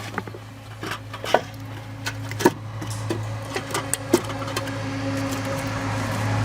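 Repaired farm tractor engine running steadily, gradually getting louder and picking up speed, with scattered sharp clicks and knocks.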